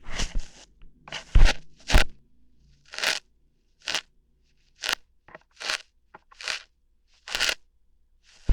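Ear hairs being plucked out close to an ASMR microphone: a series of short, crisp crunching pulls, about a dozen at irregular intervals, with silence between them.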